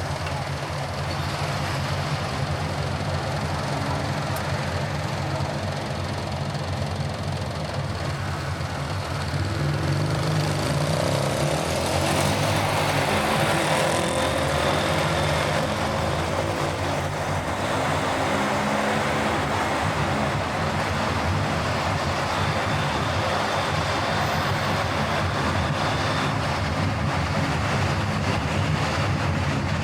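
Car driving along a road: a steady engine hum and tyre and road noise, growing louder about ten seconds in.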